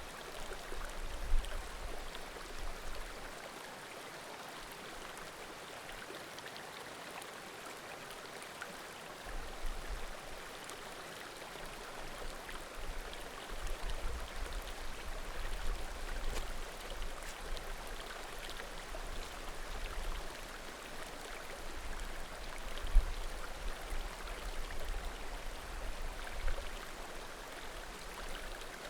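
Small mountain creek murmuring steadily, with occasional faint pops of burning firewood from a bonfire. A low rumble comes and goes, and two brief louder knocks stand out, about a second in and about two-thirds of the way through.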